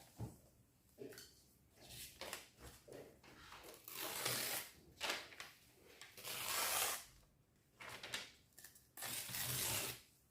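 Sheet of paper being handled on a table: faint rustles and taps, with three scratchy strokes about a second long, two in the middle and one near the end.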